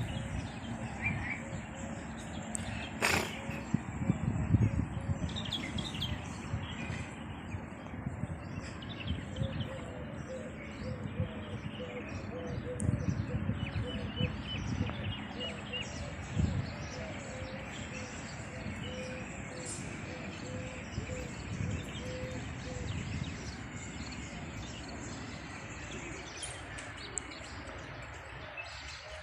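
Birds chirping and twittering outdoors over a steady low background rumble, with a run of quick repeated notes through the middle.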